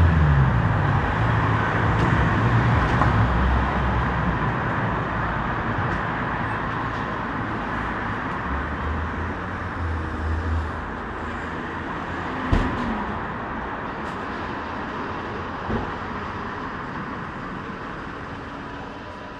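Kawasaki Z H2 SE's supercharged inline-four engine running as the bike rides, its note dropping in pitch at the start and then running lower under a steady rush of wind and road noise that slowly fades. Two brief thumps come near the end.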